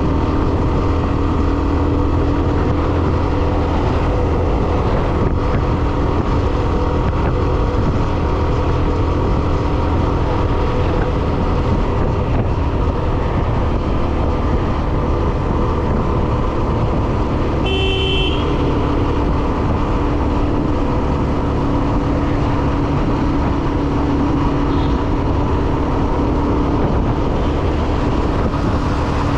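Hero Xtreme 125R motorcycle's single-cylinder engine running steadily while riding, with road and wind rumble. A short horn beep sounds about eighteen seconds in.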